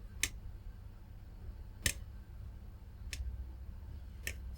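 Four short, sharp clicks spread over a few seconds, a metal tool scratching and tapping at a circuit-board trace to bare the copper, over a faint low hum.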